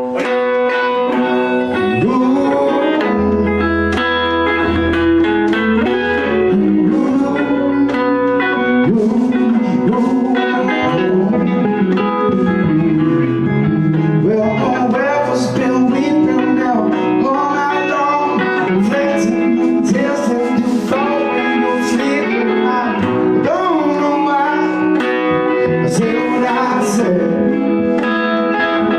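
A rock band playing live with a bluesy sound, led by electric guitars, steady and loud.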